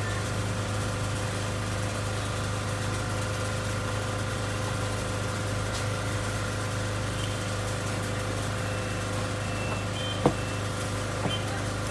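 Steady electrical mains hum from bench equipment, with faint high steady tones above it. A single sharp click about ten seconds in, and a small tick shortly after.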